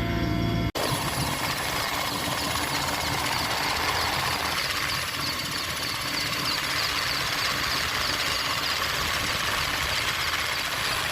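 Steady engine noise with a strong hiss, starting after a sudden cut just under a second in.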